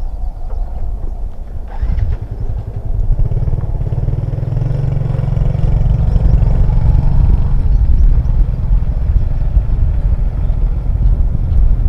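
Motorcycle engine starting up about two seconds in and then running steadily.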